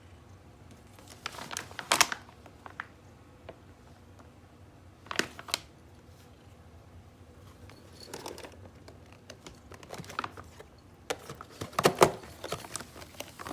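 Pet-food packaging crinkling and rustling in several short bursts, the loudest near the end, as the cat's food is being prepared.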